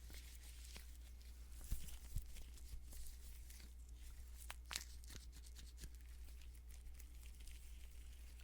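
Faint crinkly handling noises with scattered light clicks and a couple of soft knocks about two seconds in, over a steady low hum.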